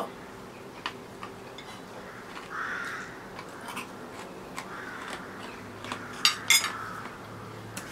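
Scattered light clicks of a fork against a plate with quiet chewing while crunchy fried-sugar-coated pasta is eaten; a few sharper clicks come about six and a half seconds in.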